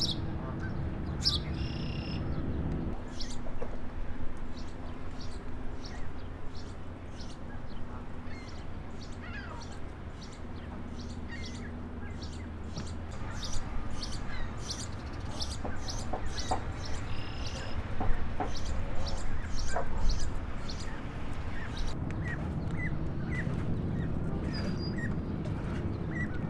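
Birds chirping in many short, high calls, over a steady low hum.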